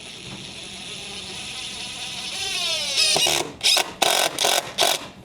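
Power drill driving a screw: a steady motor whine that drops in pitch as the screw bites, then about five short, loud bursts of the drill as the screw is run home.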